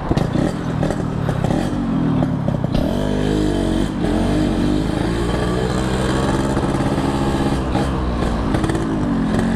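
Yamaha RX-King two-stroke single-cylinder motorcycle engine running under way, its pitch rising and falling several times as the throttle is opened and closed.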